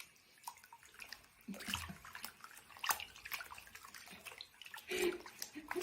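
Water splashing and dripping irregularly, as in a bathtub, with a short voice-like sound about five seconds in.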